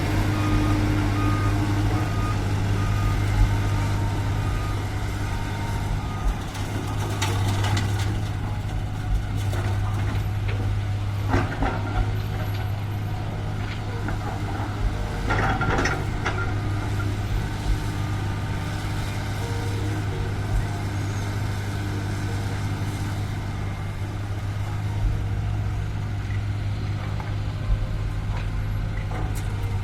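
Diesel dump truck engines running steadily, with a reversing alarm beeping at the start. Three short noises come around the middle.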